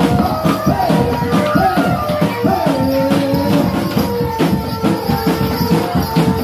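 Live music accompanying a barongan dance: fast, dense drumming and jingling percussion under a held melody line that bends in pitch now and then.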